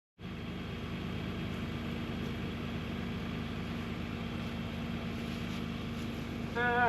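An engine running steadily at idle, with a low, even hum. Near the end comes a brief, louder high-pitched call.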